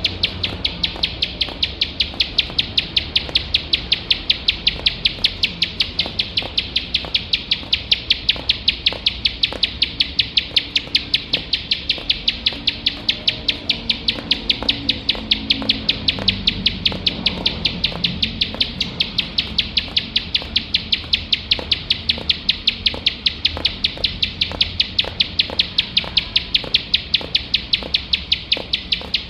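Ciblek sawah, a small field prinia, singing a long unbroken series of short, sharp, high notes at about three a second, keeping an even rhythm throughout.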